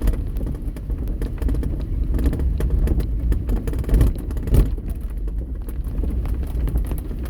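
Car driving through steady rain with its windows open: a steady low road rumble with scattered sharp clicks, and two heavier thumps about four and four and a half seconds in.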